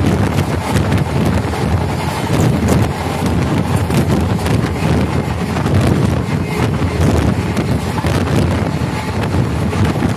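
Indian Railways express train running at speed: steady rumble of the coach wheels on the track, with many small clicks and knocks. Wind from the open door or window buffets the microphone.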